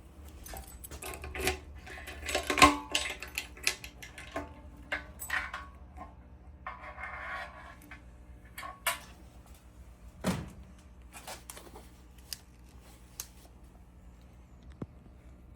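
Scattered light clicks and clinks with a few louder knocks, irregular and thinning out after about ten seconds.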